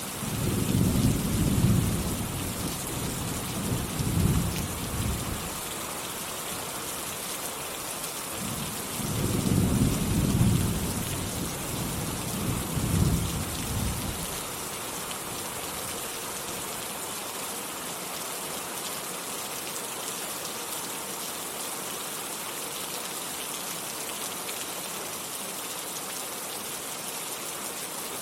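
Steady rain falling, with two rolls of low thunder rumbling in the first half, each swelling and fading over about five seconds; after that only the rain continues.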